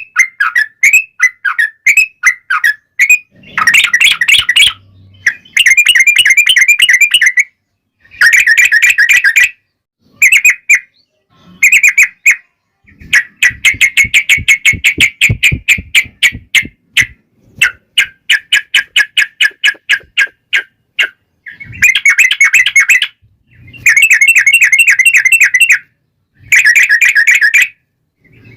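Yellow-vented bulbul (trucukan) singing loudly. It opens with a string of separate short notes, then gives long rapid rolling phrases in bursts of one to three seconds with short pauses between them.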